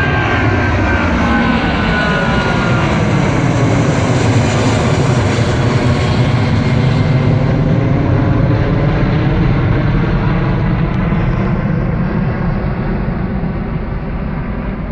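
Jet airliner taking off: a loud, steady engine roar with whining tones that fall in pitch over the first few seconds, fading near the end.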